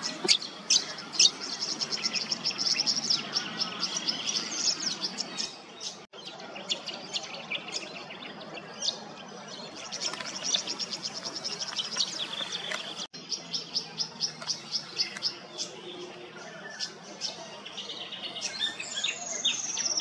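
Tawny grassbird calling: fast runs of high chirping notes, broken twice by brief dropouts, and near the end a long whistled note that slides steadily down in pitch.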